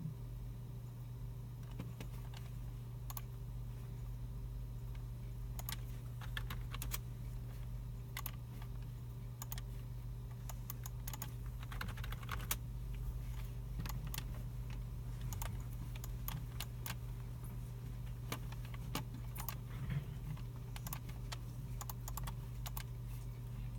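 Computer keyboards being typed on in irregular runs, with scattered mouse clicks, over a steady low hum.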